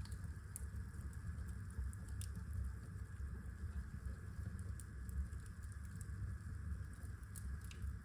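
Wood fire burning in a fireplace: a low steady rumble of flames with scattered sharp crackles and pops.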